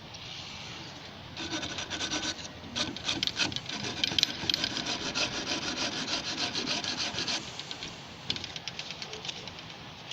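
Fast back-and-forth hand scrubbing of a gas water heater's thermocouple with an abrasive, rubbing it back to bare metal. The strokes start about a second and a half in and run in a quick, steady rhythm for about six seconds. After a short pause they come again, looser, near the end.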